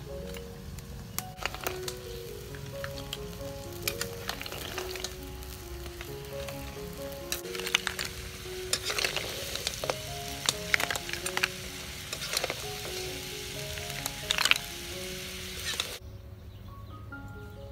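Snails sizzling in a hot wok with a metal ladle scraping and clinking against the shells as they are stirred and scooped out, many sharp clicks among the steady sizzle. The sizzle cuts off suddenly near the end.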